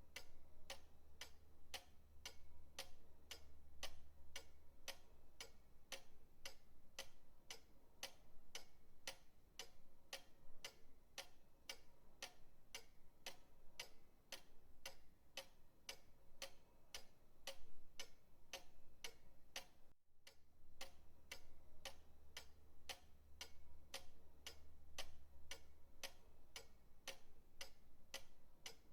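Pendulum clock ticking steadily, about two ticks a second, with a faint low hum underneath in places.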